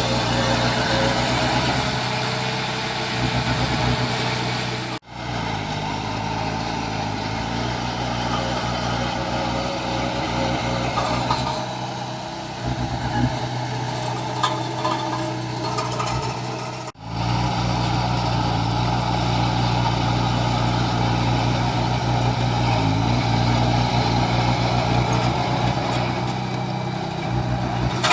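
Heavy diesel engines of construction machines running steadily. The sound cuts out abruptly twice, about five and seventeen seconds in, then resumes.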